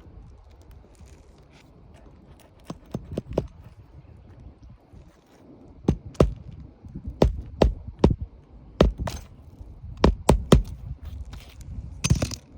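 A series of irregular knocks and thuds over a low rumble, coming thicker in the second half, with a brief scraping burst near the end.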